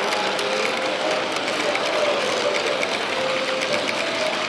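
Model train running on a layout: a small motor whirring and wheels clicking quickly over the track, over the steady chatter of a crowded hall.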